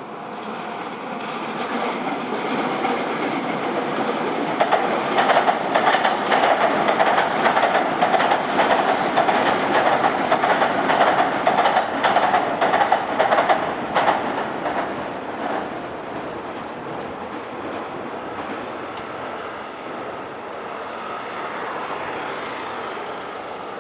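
A train passing over a level crossing, its wheels clattering over the rail joints. It builds up, is loudest with rapid clicks between about 5 and 14 seconds in, then fades away.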